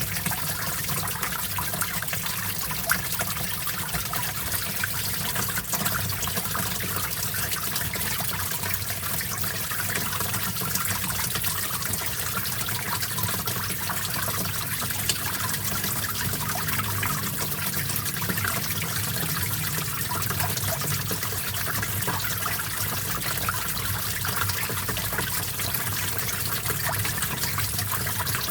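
Small stream of water trickling and splashing steadily.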